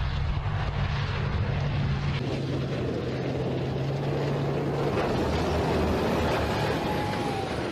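Military main battle tank driving past on a dirt track: its engine and tracks make a steady, noisy rumble with a low hum that stops about five seconds in.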